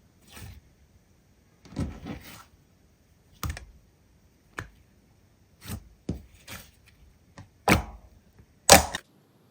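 Slime being handled, making about ten irregular clicking pops. The two loudest come near the end.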